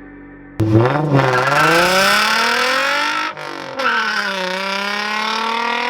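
A vehicle engine accelerating hard, starting abruptly about half a second in: its pitch climbs, drops briefly about three and a half seconds in as it shifts up a gear, then climbs again until it cuts off.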